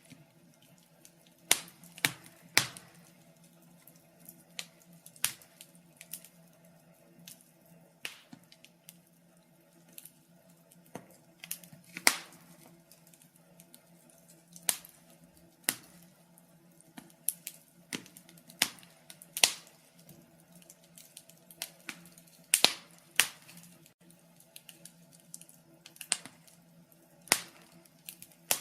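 Wood fire crackling: sharp irregular pops and snaps, a few loud ones every couple of seconds among fainter ticks, over a faint low steady hum.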